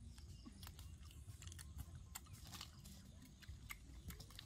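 Faint chewing and biting of grilled chicken, heard as scattered, irregular small clicks of eating.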